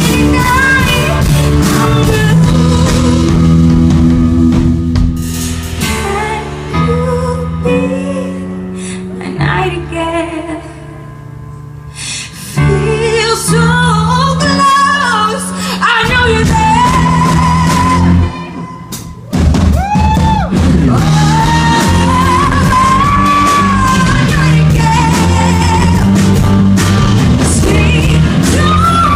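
Live band music with a lead singer, guitar and drums. The music thins out and drops in level for a couple of seconds midway, breaks off briefly just before the 20-second mark, then comes back in full.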